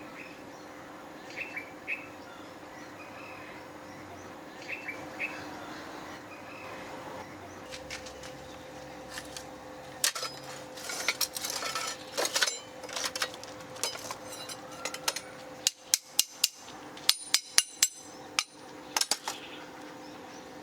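Sharp metallic clicks and knocks of metal tools and blade being handled, sparse at first and then several in quick succession near the end, over a steady faint hum.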